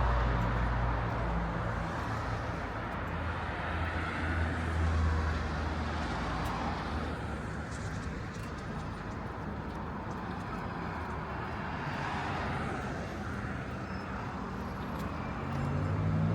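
City street traffic: cars passing, their tyre and engine noise swelling and fading, with a low engine hum near the start and again near the end.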